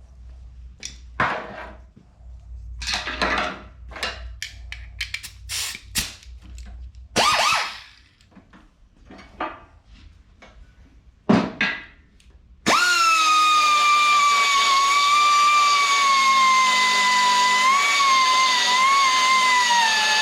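Scattered knocks and clattering, then about two-thirds of the way in an angle grinder starts suddenly and runs with a steady whine. Its pitch slowly sags, with small dips, as it grinds the cast iron break surfaces clean for welding.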